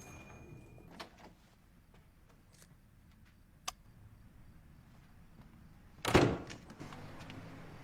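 A door bangs once, loudly, about six seconds in. Before it there are only a few faint clicks over quiet room tone.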